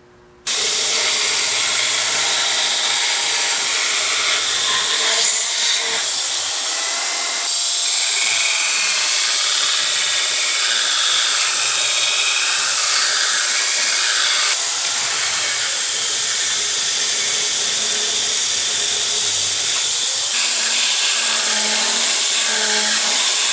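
2x72 belt grinder grinding the profile of a forged steel axe head: a loud, steady abrasive hiss that starts abruptly about half a second in.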